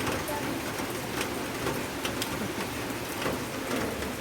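Steady rain falling, pitter-patter, with scattered single drops ticking out of the steady patter.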